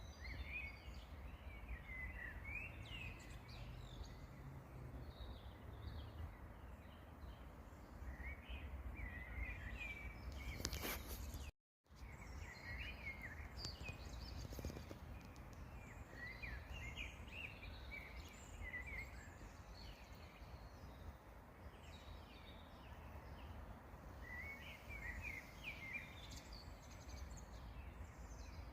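Several songbirds singing, with short chirps and trills coming and going over a low, steady outdoor rumble. The sound drops out completely for a moment about twelve seconds in.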